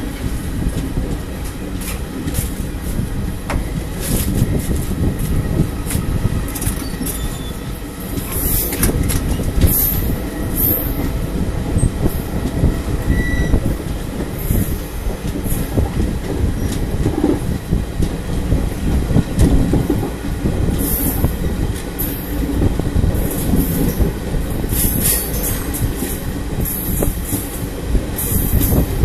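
Train running, heard from an open carriage window: a steady rumble of wheels on the rails with scattered clicks and knocks.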